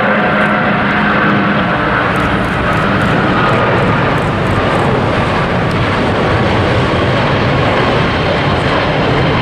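Jet airliner engines at takeoff power as the plane climbs out: a loud, steady rumble with a faint high whine slowly dropping in pitch.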